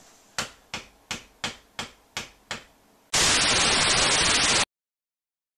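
Seven sharp, evenly spaced taps, about three a second. Then a loud burst of static hiss lasting about a second and a half, which cuts off suddenly into dead silence.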